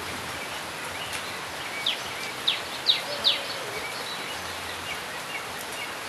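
Small birds chirping, with a run of four sharp, quickly falling chirps about two to three seconds in and fainter short chirps around them, over a steady background hiss.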